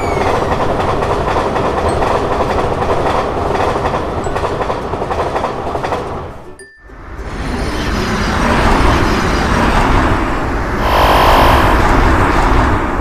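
Train running past: a steady rumble and rattle of wheels on rails. It drops out briefly a little before the midpoint, then comes back and grows louder near the end.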